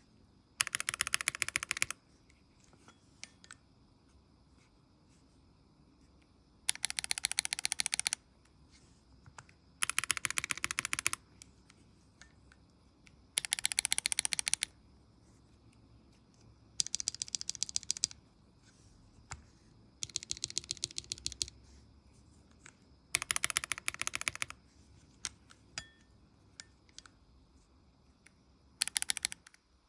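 Lubed Syryan Chick linear mechanical keyboard switches pressed in rapid runs, about nine short bursts of fast clicking keystrokes with pauses between them.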